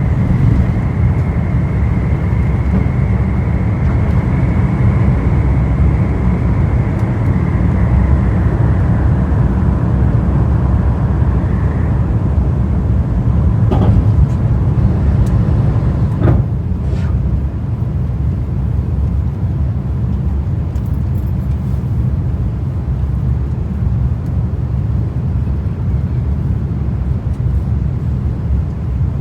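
Airbus A350-1000's Rolls-Royce Trent XWB jet engines at takeoff thrust: a steady low roar with a high fan whine that fades away about ten seconds in as the aircraft moves off. Two brief clicks come midway.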